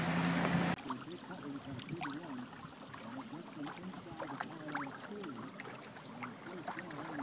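A steady engine hum that cuts off abruptly under a second in. Then faint, indistinct voices over light water sounds with small scattered clicks, as against a small boat on the water.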